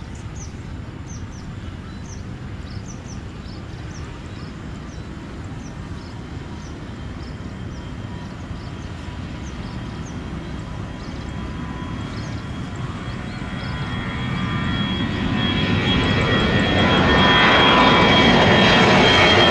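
Jet airliner taking off: engine noise grows steadily louder through the second half, with a high steady whine, until it is loud near the end. Small birds chirp over a low background early on.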